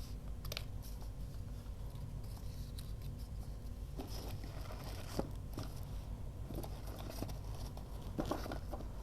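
Paper and craft tools being handled at a desk: irregular rustling, scraping strokes and light taps, busier about four seconds in and again near the end, over a steady low hum.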